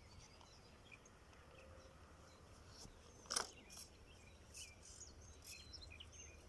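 Faint outdoor ambience with small birds chirping now and then, and one sharp click about halfway through.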